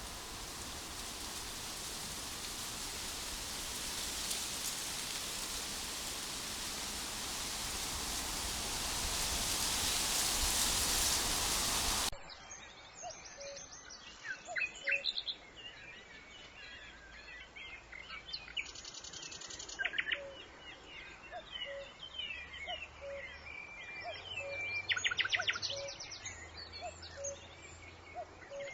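A steady rushing hiss, slowly growing louder, cuts off abruptly about twelve seconds in. Birdsong follows: assorted chirps and whistles, with several fast trills, over a short low note repeating about once a second.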